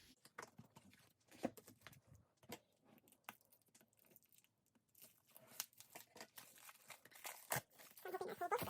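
Paper, card and plastic album packaging rustling and crinkling as it is handled and opened, in scattered short clicks and rustles, with one sharper tap a little before the end. A faint voice murmurs near the end.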